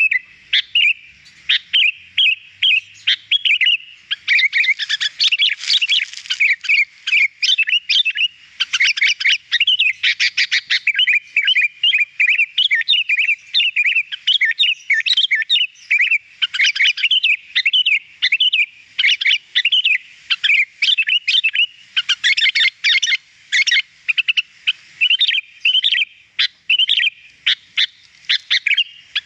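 Sooty-headed bulbul (kutilang) singing without let-up: quick runs of bright chirps and whistled notes, with hardly a pause between phrases.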